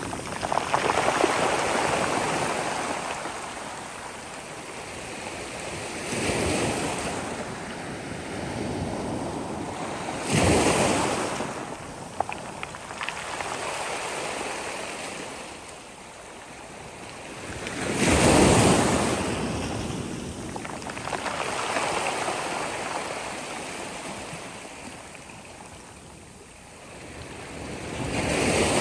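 Sea waves breaking and washing up the shore, the surf swelling and ebbing, with the biggest surges about ten seconds in, about eighteen seconds in and again near the end. Some wind on the microphone.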